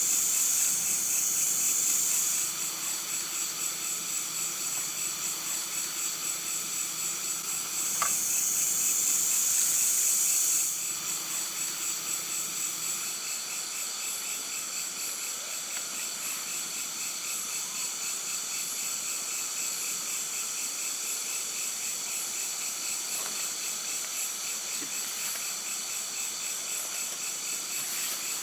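Forest insects trilling in a steady high chorus, with a louder high-pitched buzz that sounds for the first two seconds or so and again from about eight to eleven seconds in.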